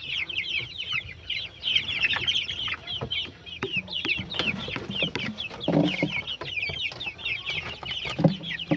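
A flock of poultry calling, a continuous chorus of many overlapping short, high-pitched peeps, with a few duller low knocks about six and eight seconds in.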